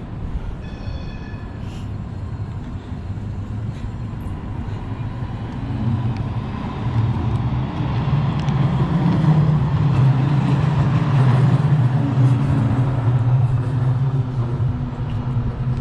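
Street traffic with a motor vehicle passing close by: a low rumble that builds to its loudest roughly two-thirds of the way through, then eases. A brief high ringing tone sounds about a second in.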